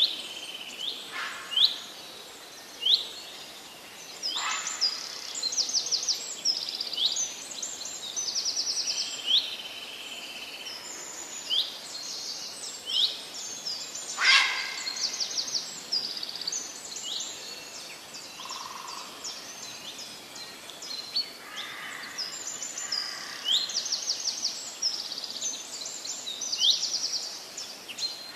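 Several birds singing and calling: short high chirps that sweep upward, repeated about once a second, mixed with fast high trills, and one louder call sweeping downward about halfway through, over steady background noise.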